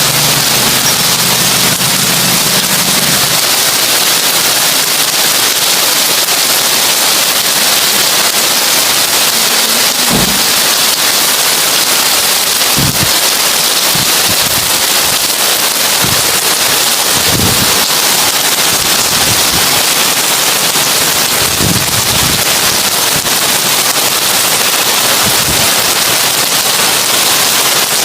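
Heavy rain drumming steadily on a tin roof as a dense, even hiss of drops, with a handful of low thuds scattered through the second half. A low hum underneath stops about three seconds in.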